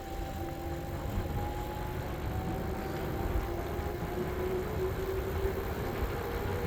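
Electric bike motor whine, a steady tone that drifts slowly in pitch with speed, over low wind and road rumble.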